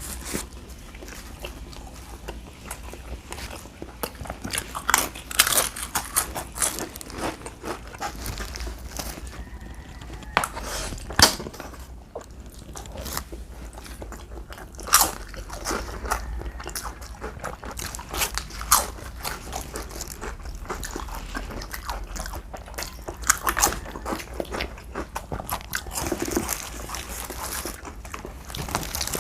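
Close-up mukbang eating sounds: irregular crunchy bites and chewing, with sharp loud crunches about 5, 11, 15 and 23 seconds in.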